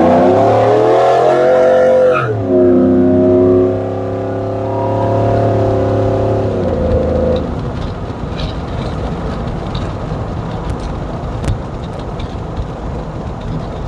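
Chevrolet Silverado pickup accelerating hard at half throttle on its freshly reinstalled transmission and exhaust. The engine revs climb, drop suddenly at an upshift about two seconds in, and pull again until the driver lifts off about seven seconds in, leaving steady road and tyre noise.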